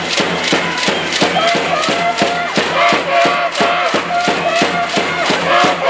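Volleyball cheering section chanting in unison over fast rhythmic beating, about four beats a second.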